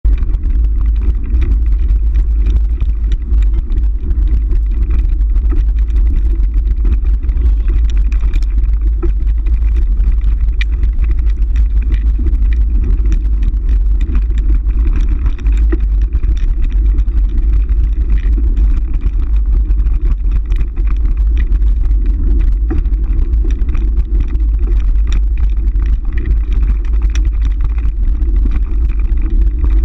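Steady wind rumble on the microphone of a moving ride, a heavy low buffeting with scattered small knocks and rattles.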